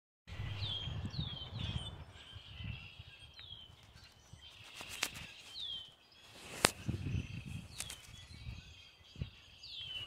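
A bird calling outdoors: short chirps that slide down in pitch, repeated every second or two, over low rustling handling noise. Two sharp clicks come about halfway through, the second the loudest sound.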